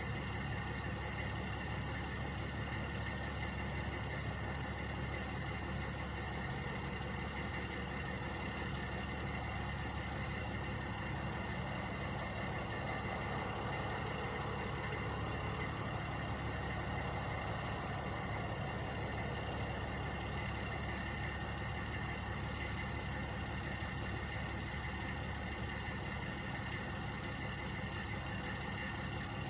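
Truck engines idling steadily, a constant hum with no revving or change.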